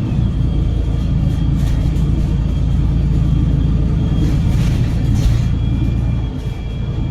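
Cummins L9 inline-six diesel and Voith DIWA automatic gearbox of a double-decker bus under way, heard from inside: a deep steady rumble with thin steady whining tones riding above it. The sound eases slightly near the end.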